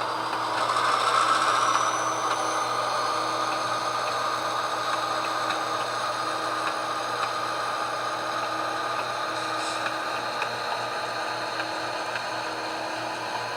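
HO scale model locomotive running along the track, its small electric motor and gearing giving a steady whine and hum. A high whine rises in pitch over the first few seconds as it picks up speed.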